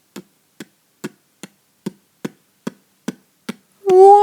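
Evenly paced clicks, about two and a half a second. Near the end a person's voice breaks in with a long, loud, drawn-out "whoa".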